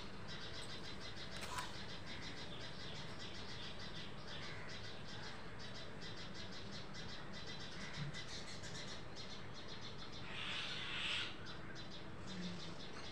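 Birds chirping in a rapid, steady background. There is a sharp click about one and a half seconds in and a short louder noise near the end.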